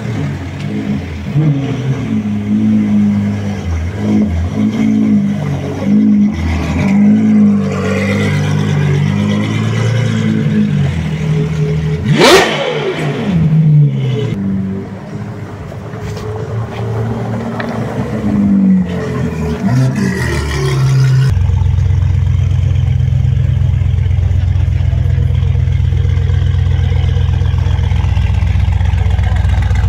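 A Ferrari's engine running at low revs as the car creeps along, its note rising and falling, with a sudden loud sweep in pitch about twelve seconds in. About two-thirds of the way through, the sound switches abruptly to an Audi RS6 Avant's twin-turbo V8 idling steadily and loudly.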